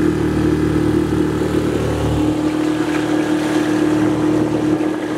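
Boat engine running steadily at constant speed, a loud even drone.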